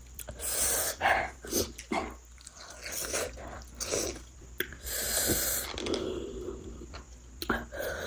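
Close-up eating sounds: chewing and wet mouth noises, broken by a string of short, hissing breaths and sniffs from someone eating very spicy food.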